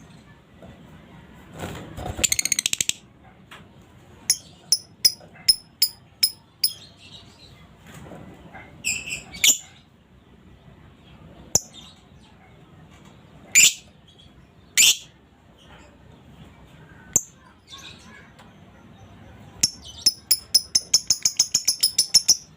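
Female lovebird calling: sharp, high-pitched single chirps at irregular intervals, a dense burst of chatter about two seconds in, and near the end a fast, even run of about five calls a second, the 'ngekek' rattle.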